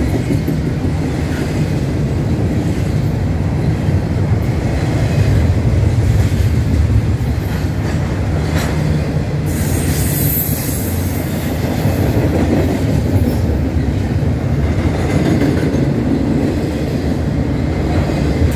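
Double-stack intermodal freight cars rolling past close by, with a steady low rumble and clatter of steel wheels on rail. A brief high-pitched wheel squeal comes about ten seconds in.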